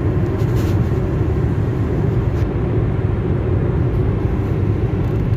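Steady road and engine noise heard from inside a moving car, a low, even rumble.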